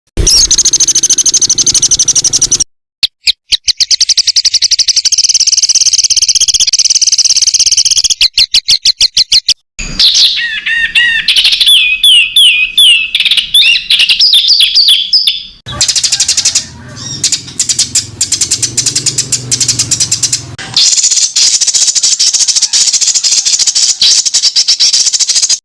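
Caged songbirds singing in spliced recordings of masteran training song. There are loud, rapid-fire trills and fast repeated notes of the 'tembakan' kind, then a stretch of whistled, warbling phrases from about ten to fifteen seconds in, then rattling runs and a dense high trill again. Each recording cuts off abruptly into the next.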